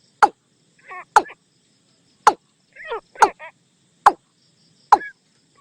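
Watercock calls: a sharp note sweeping quickly downward, repeated about once a second, six times, with short gurgling notes between some of them.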